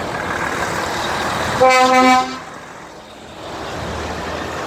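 A vehicle horn, most likely a truck's, gives one short blast about one and a half seconds in, over a steady background of road-traffic noise.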